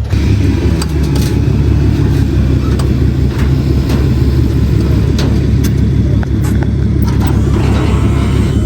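Pickup truck engine running with a steady low rumble as the truck drives, with a few light clicks.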